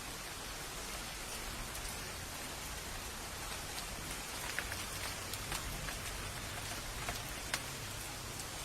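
Steady rain falling, with a few louder individual drops striking close by in the middle of the stretch.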